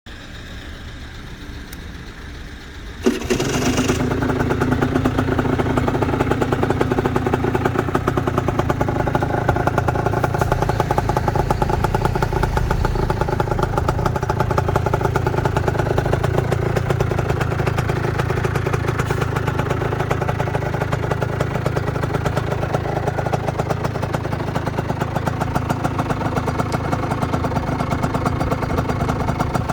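Derestricted Aprilia RS50 SE's 50cc two-stroke single-cylinder engine starting about three seconds in, then running steadily.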